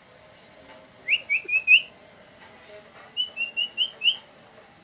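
Whistling in two quick runs of short high notes, four and then five, each note sliding slightly upward.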